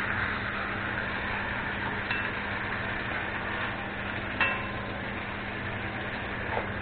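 Beef, onions and bell pepper sizzling steadily as they fry in butter in a kazan, with a metal slotted spoon clinking against the pot twice, about two seconds in and again about four and a half seconds in.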